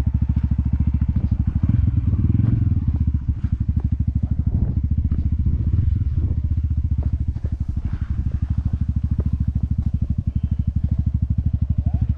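Motorcycle engine running at low revs in gear, a steady rapid pulsing from the exhaust, as the bike rolls down a steep dirt track held back on engine braking. A few rattles and knocks from the bike over the ruts come in the first half.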